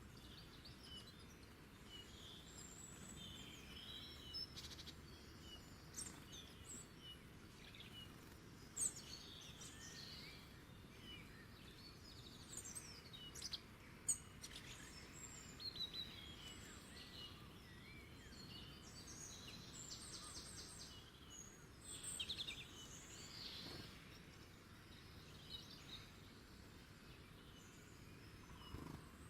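Faint birdsong: several birds chirping and calling in many short, high notes and brief trills, over a soft steady background hiss. A couple of sharper, louder notes stand out about a third of the way and about halfway through.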